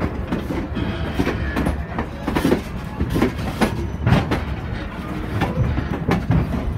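Passenger train coach rolling along the track, heard from inside the car: a steady low rumble with irregular wheel clacks and knocks.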